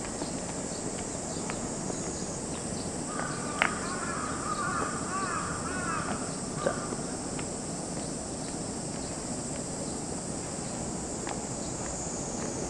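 A bird calling, a run of wavering calls lasting about three seconds that begins a few seconds in, over steady background noise. A sharp click, the loudest sound, comes shortly after the calls begin, and a few fainter clicks are scattered through.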